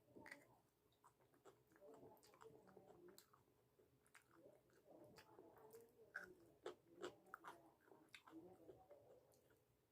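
Faint, close-up chewing of chhole bhature, fried puffed bread with chickpea curry, with irregular small wet mouth clicks and smacks throughout.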